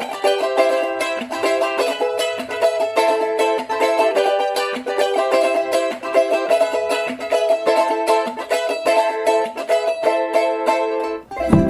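Instrumental music on plucked string instruments: a quickly picked melody in the middle and upper range with no bass under it, until the low accompaniment comes back in near the end.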